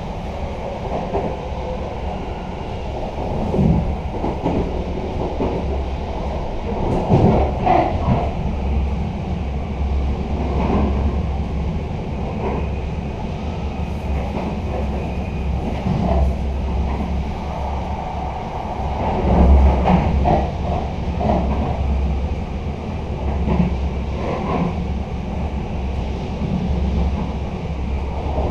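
Running noise inside the door vestibule of a passenger coach of a locomotive-hauled intercity train at speed: a steady low rumble of wheels on rails, with irregular knocks and clatter from the running gear, the heaviest about seven and twenty seconds in.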